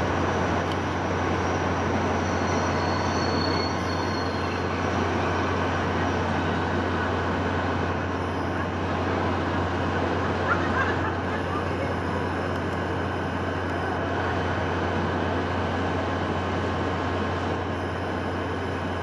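Steady wind sound: an even, unbroken rushing noise with a constant low rumble underneath.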